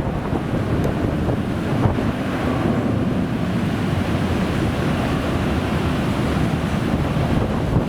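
Strong wind buffeting the microphone, a steady low rumbling roar that flutters with the gusts.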